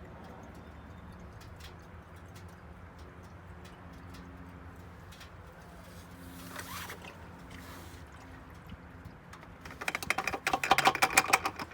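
Engine flush being poured from its bottle into the engine's oil filler, glugging rapidly and loudly from about ten seconds in, after a stretch of faint steady hum and light ticks.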